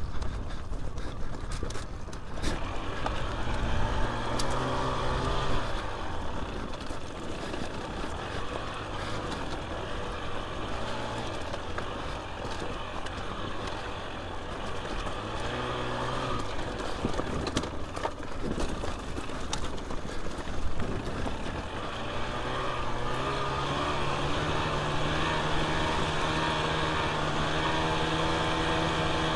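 Dirt bike engine running under way, revving up and easing off, then holding a steady higher pitch through the last few seconds. Under it there is a rush of wind and riding noise, with a few sharp knocks.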